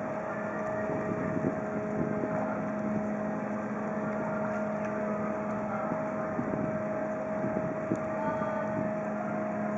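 The Michigan paddlewheel cruise boat's engines running, a steady drone with a constant hum over a rushing noise.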